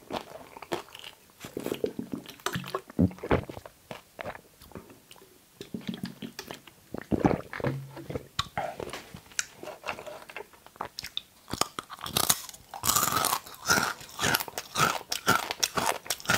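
Close-miked chewing and biting of okra, with wet clicks and crunches, short low hums now and then, and a run of louder crunchy bites near the end.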